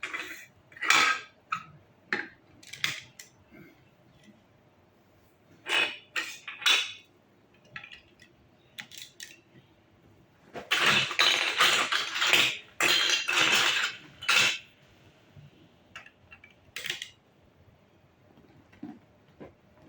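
Toy puzzle building blocks being handled and fitted together: scattered sharp clicks and clacks, with a longer run of rattling clatter about halfway through.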